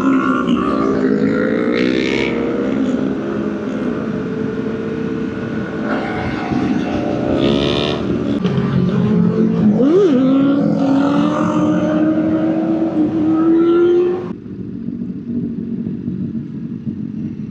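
Motorcycle engine running under way, its pitch falling and climbing as it accelerates through the gears, with a quick shift about ten seconds in. About fourteen seconds in, the sound turns quieter and duller.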